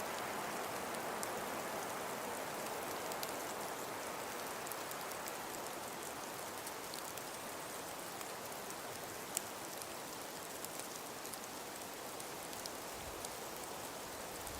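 Steady ambience of wind and falling snow: an even hiss with faint scattered ticks, and one sharper tick about nine seconds in.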